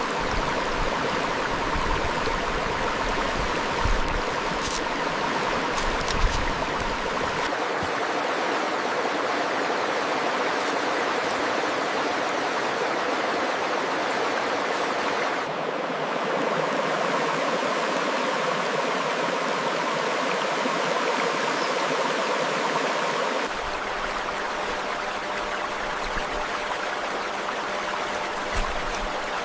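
Steady rush of a stream's running water, its character changing abruptly a few times, with a few faint short chirps or clicks near the start.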